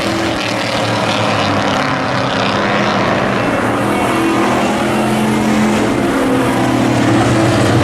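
Hobby-class race trucks' engines running on the speedway, a loud steady engine drone with the pitch of several engines shifting up and down as they go around the track.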